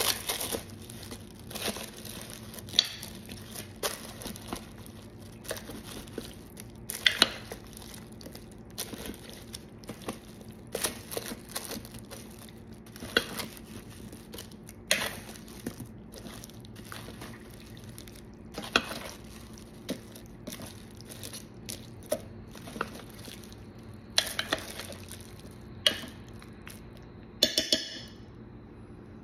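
Diced raw chicken and potatoes with seasonings being stirred in a slow cooker: irregular scrapes, clinks and wet squishing, over a steady low hum.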